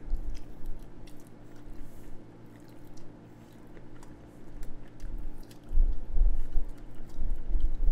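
A person biting into and chewing a sticky BBQ-glazed chicken wing, wet chewing with small clicks, growing louder in the last two seconds.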